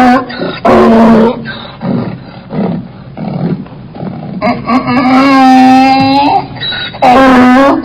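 An animal calling loudly: short repeated calls, quieter calls in between, one long drawn-out call about five seconds in, then short calls again near the end.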